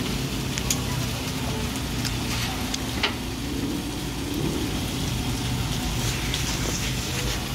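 Wet chewing and lip-smacking on a bite of sweet-sauce-glazed chicken skewer, with scattered small clicks, over a steady low hum and hiss.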